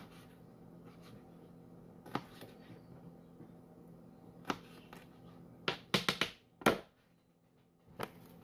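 Kitchen knife cutting bell pepper and onion into strips on a cutting board: a few separate sharp chops, then a quick run of several around six seconds in.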